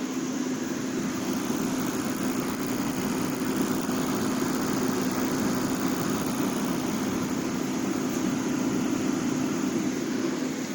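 Heat Star portable propane heater running: a steady burner roar with a constant low hum and no change in pitch.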